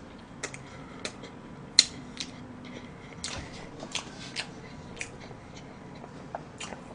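Close-miked chewing: a string of small, sharp mouth clicks and smacks at uneven intervals, the loudest a little under two seconds in.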